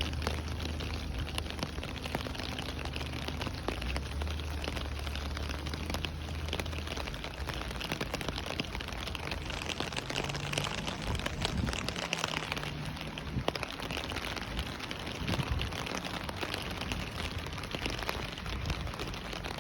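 Steady rainfall: an even hiss of rain with many small drop ticks. A low steady hum lies under it through the first half and fades out about halfway.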